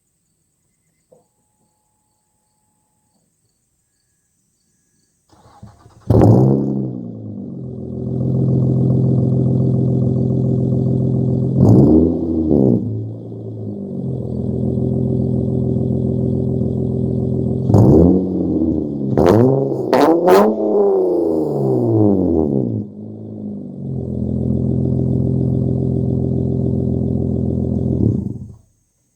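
A 2006 Honda Ridgeline's V6 breathing through a straight-piped exhaust with no catalytic converters and a 14-inch Magnaflow muffler: it starts about six seconds in and idles, is revved once, again, then blipped several times in quick succession, and settles back to idle before the sound stops abruptly near the end.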